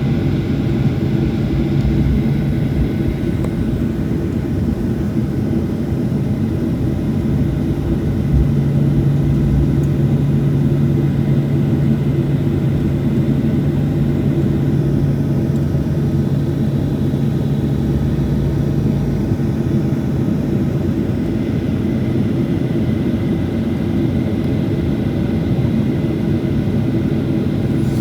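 Steady airliner cabin drone from the engines and air system, heard from inside the passenger cabin, with a low held hum that swells slightly partway through.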